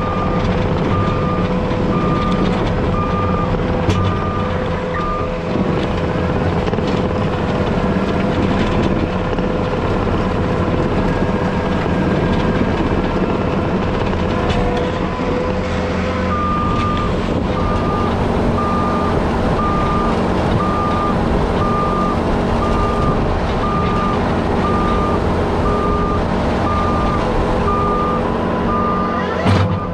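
Heavy equipment engine running steadily under load while grading, its backup alarm beeping about once a second at the start and again through the second half as the machine reverses.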